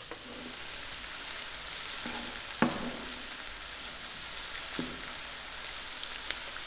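Sliced onion and garlic sizzling steadily in olive oil in a nonstick frying pan over fairly high heat. A wooden spatula stirs them, knocking against the pan a few times; the sharpest knock comes about two and a half seconds in.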